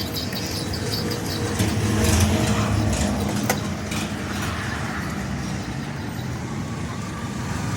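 A motor vehicle engine running with a steady low rumble, and one sharp click about three and a half seconds in.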